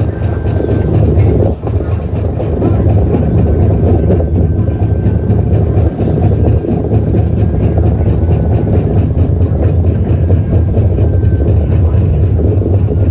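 DC Streetcar running along the line: a loud, steady low drone of motors and wheels on rail, with a faint high tone coming and going.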